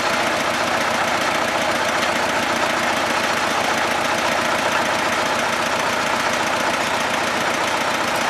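T-25 tractor's two-cylinder air-cooled diesel engine running steadily, with a fast even pulse.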